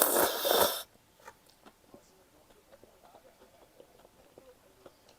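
A loud, noisy rush of air at the mouth or nose, about a second long, that stops just under a second in. Faint, scattered small clicks of chewing follow.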